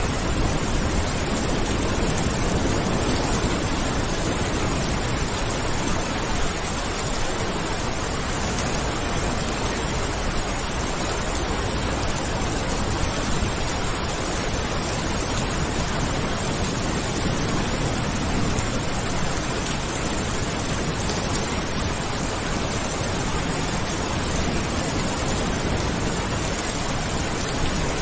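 Steady rain falling, an even, dense hiss with no breaks or thunderclaps.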